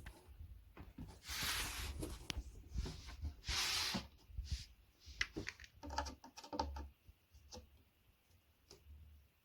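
Flat-pack furniture parts and fittings being handled: two short scraping or rustling sounds in the first half, then a run of small clicks and knocks.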